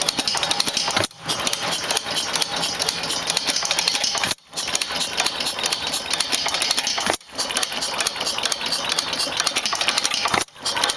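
Circa-1895 Pierce inverted 3/4 HP hit-and-miss engine running under its governor, a fast, even clatter of ticks with a brief drop about every three seconds.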